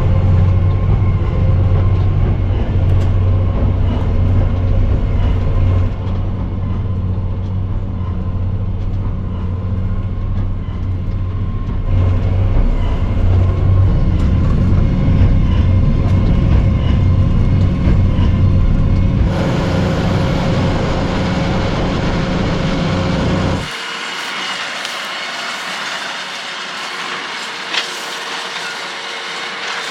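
Fendt tractor and Claas Quadrant large square baler working in straw: a steady, loud engine and machinery drone with a deep rumble. A few seconds from the end it changes to a thinner, more distant machine hiss without the low rumble.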